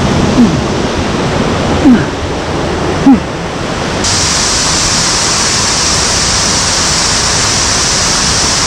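Rushing water of a mountain stream with small waterfalls, a loud, steady rush that turns brighter and hissier about four seconds in. Three short falling-pitched sounds stand out over it in the first three seconds.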